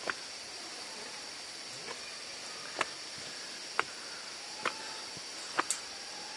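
Steady high-pitched drone of insects, with about six short sharp clicks or taps scattered through it, two of them close together near the end.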